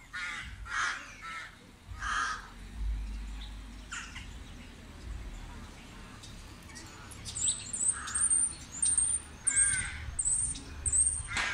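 Birds calling: a few harsh calls in the first couple of seconds, then a run of short, high, quick notes repeated about twice a second from about seven seconds in.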